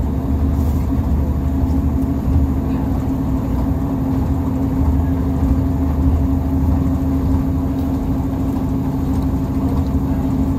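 Diesel passenger train running, heard from inside the carriage: a steady low rumble with a constant droning hum.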